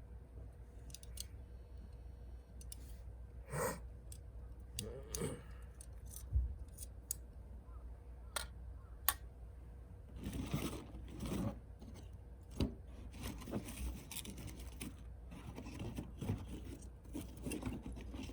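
Irregular handling noise: sharp snaps and clicks mixed with short scraping, rustling bursts, over a steady low rumble.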